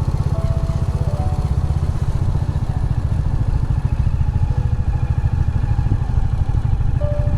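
Royal Enfield Hunter 350's single-cylinder engine and exhaust pulsing steadily under way, with a few faint music notes over it.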